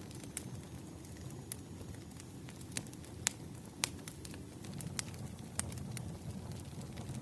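Wood fire burning, a steady low rumble with irregular sharp crackles and pops, two of them louder about three and four seconds in.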